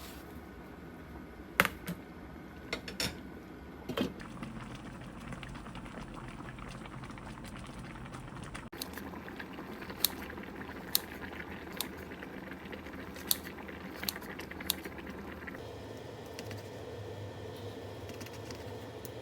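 Food boiling in a pot on the stove, a steady bubbling hiss, with a scattering of sharp clinks and knocks from cookware.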